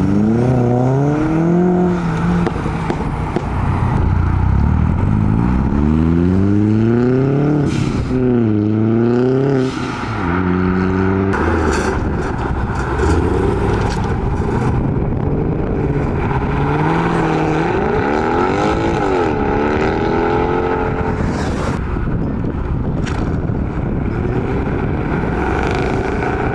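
Engines of modified cars revving as they drive off one after another, the pitch rising and dropping repeatedly as each accelerates and shifts, with a quick rev up and back down about eight seconds in.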